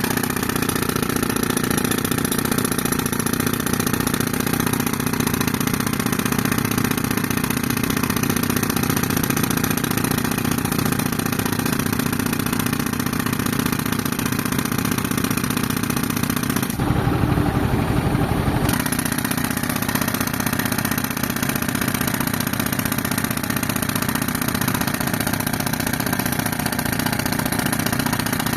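A tractor's diesel engine runs steadily while driving an air compressor. Past the middle, for about two seconds, the sound changes: it gets fuller in the low end and quieter up top.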